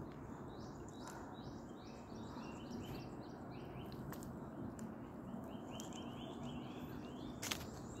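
A songbird calling a long run of short, repeated high notes, about three a second. Underneath, footsteps rustle through dry leaf litter, with an occasional sharp snap.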